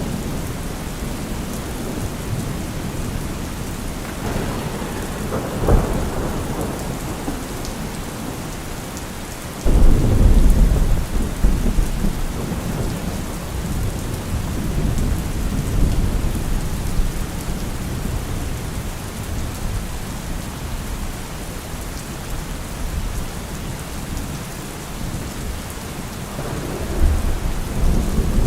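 Steady rain falling, with thunder. There is a short crack about 6 s in, a heavy low rumble that breaks in suddenly about 10 s in and rolls on for several seconds, and another rumble building near the end.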